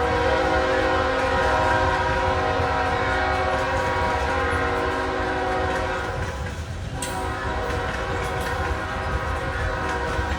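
Locomotive air horn sounding a long chord, breaking off about six seconds in and starting again a second later, over the low rumble of the diesel locomotives and rolling train, from a GE AC4400CW-led coal train passing by.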